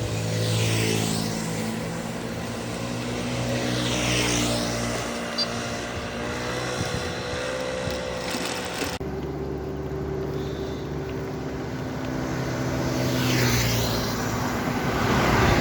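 Engine of a road vehicle running steadily while riding along, with other vehicles whooshing past about a second in, about four seconds in and near the end. The sound changes abruptly about nine seconds in.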